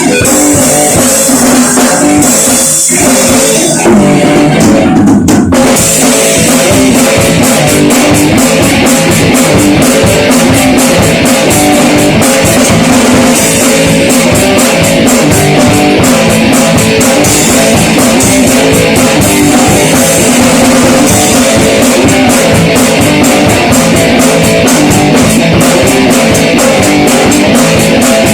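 Rock band playing loud, with guitars over a drum kit. About four seconds in the cymbals drop out for a moment, then the drums come back in at a fast steady beat.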